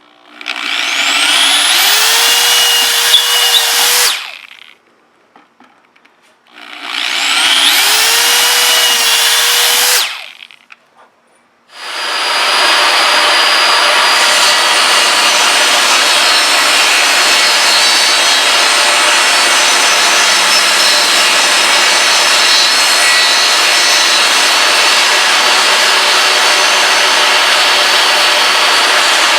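A power drill boring pilot holes through 3/4-inch plywood in two runs of a few seconds each, the motor whining up to speed at the start of each. About twelve seconds in, a power saw starts cutting the plywood and runs steadily on, opening the slot that the router will travel in.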